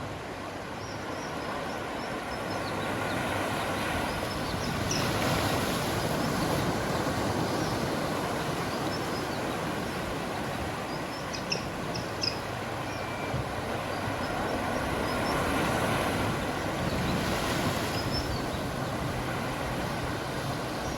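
Sea surf washing onto the beach in a steady rush that swells and eases, with small birds chirping high above it.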